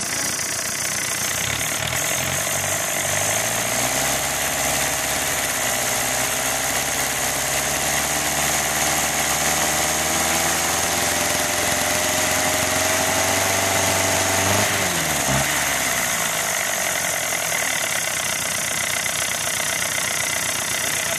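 Isuzu C240 2.4-litre four-cylinder diesel engine running. It is brought up to a higher speed about two seconds in and held there, then eased back down to idle around fifteen seconds in.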